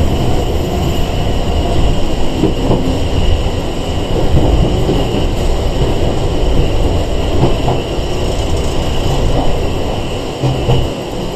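Inside a Sanki Railway 101-series (ex-Seibu 401-series) electric train running along the line: a steady, loud rumble of wheels and running gear on the rails, with a thin, constant high whine over it.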